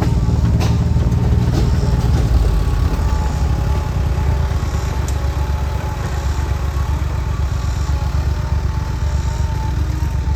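Tractor engine running steadily under way, with a few short clicks or knocks.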